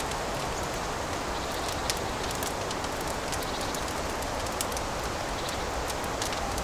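Wood fire burning in a fireplace: a steady rushing hiss with frequent small crackles and one louder pop about two seconds in.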